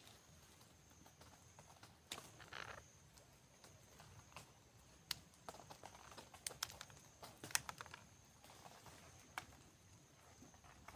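Near silence with scattered faint clicks and light taps, irregular and a few seconds apart, and a short rustle about two seconds in.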